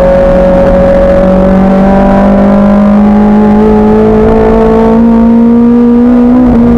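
Racing car's engine pulling hard under throttle, its note climbing slowly and steadily in one gear, with a brief break in the note near the end.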